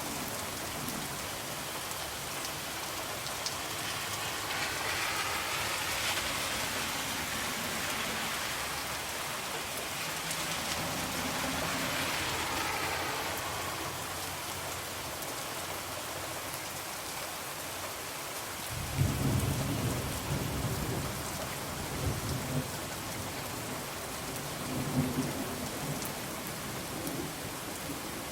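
Steady heavy rain falling on a window, swelling in the middle, with low rumbling thunder that breaks in about two-thirds of the way through and rolls on in waves.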